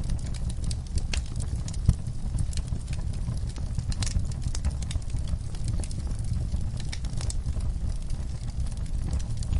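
Fire burning in a fireplace: a steady low rumble with irregular crackles and pops, one sharper pop about two seconds in.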